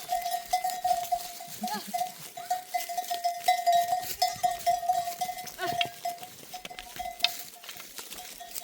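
A flock of goats and sheep on the move, their neck bells ringing and clanking almost without a break, with a couple of short bleats.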